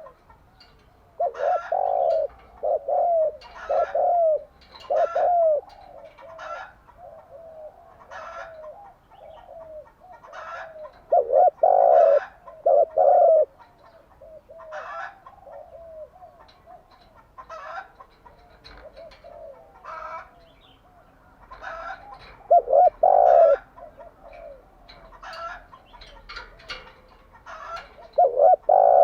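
Spotted doves cooing: loud bouts of several low, rounded coo notes, with about ten seconds between bouts. Fainter cooing and short higher chirps fill the gaps.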